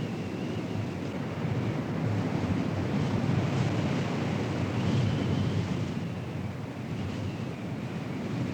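Strong storm wind gusting across the microphone, a dense rumbling rush that swells and eases. A faint, wavering high tone comes and goes above it.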